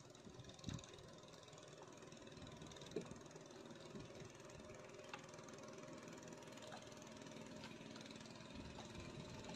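Near silence with a faint, steady engine hum, like a distant motor running, and a few soft ticks.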